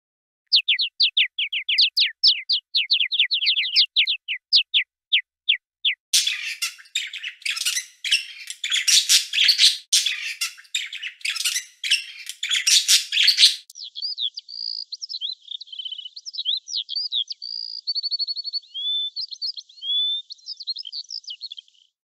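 Songbirds calling and singing, in three passages that change abruptly. First comes a quick series of downward-slurred chirps, about four a second. Then a dense burst of harsh chatter, and finally varied warbling with a short trill near the end.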